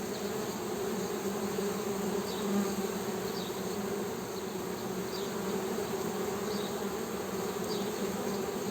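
Honey bees humming: a steady, even buzzing drone with no break, with faint short high chirps about once a second above it.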